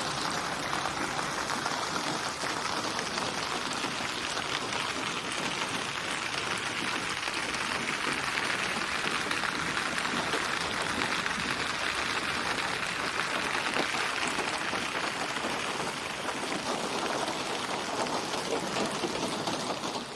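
Steady rain ambience built from many layered rain recordings and placed around the listener in 8D binaural surround, its intensity slowly swelling and easing.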